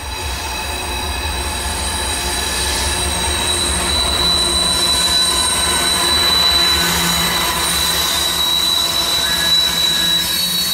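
Two Norfolk Southern GE diesel locomotives, an AC44C6M and a D9-44CW, hauling a loaded coal train pass close by, their engines giving a deep rumble that swells over the first couple of seconds as they near. A steady high-pitched squeal runs over the top.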